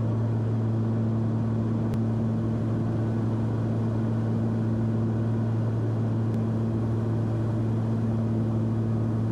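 Steady drone of a Cessna 340's twin piston engines and propellers heard in the cabin, an unchanging low hum with an even rush of noise over it.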